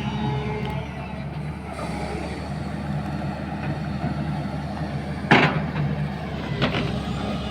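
SANY 210 hydraulic excavator's diesel engine running steadily under work, with a sharp metallic knock a little after five seconds in and a lighter one about a second later.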